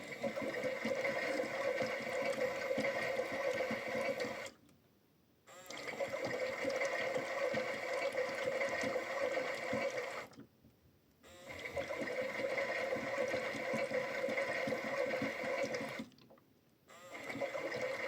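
Toy Bosch washing machine in its wash cycle: the small motor turns the drum with water sloshing inside, giving a steady whirring hum. It runs in stretches of about five seconds and stops briefly three times.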